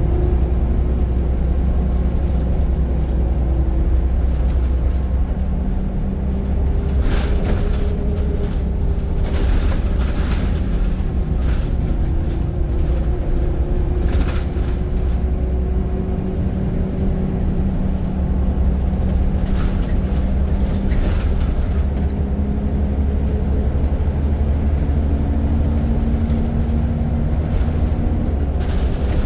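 Scania N94 single-deck bus heard from on board: its diesel engine runs under way with a steady low drone, and the engine note shifts pitch several times as it changes speed. Short rattles and clatters from the bus body come a few times, bunched around the middle and near the end.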